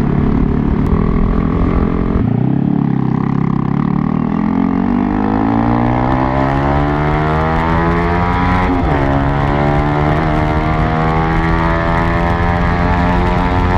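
Yamaha R15 V3's single-cylinder engine through a Toce aftermarket exhaust, riding and accelerating. The pitch climbs steadily for several seconds, dips briefly about nine seconds in, then holds near-steady, with wind rush growing as speed builds.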